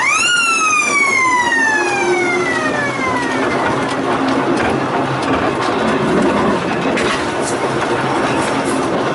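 A single high, whistle-like tone that shoots up at the start and then slides steadily down in pitch over about three seconds, over constant background noise.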